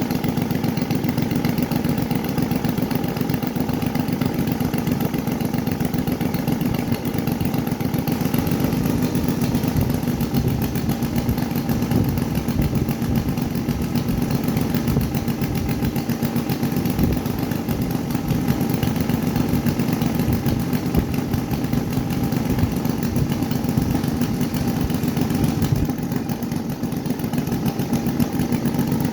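Combustion engine of a radio-controlled P-47 warbird model running at a steady speed, with a buzzing, chainsaw-like note that holds the same pitch throughout.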